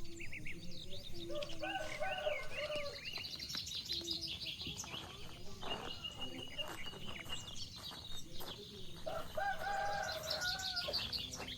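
Small birds chirping and twittering, with a rooster crowing twice: once about two seconds in and again near the end.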